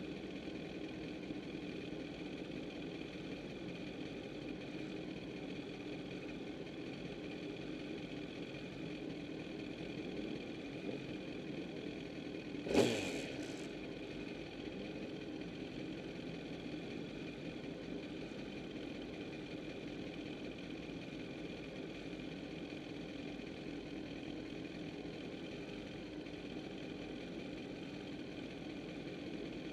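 A 2008 Kawasaki ZX-10R's inline-four engine idling steadily, with one sharp knock about thirteen seconds in.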